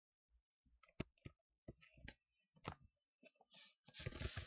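A few separate taps and key clicks, spaced about half a second apart, then fast continuous typing on a computer keyboard starting near the end.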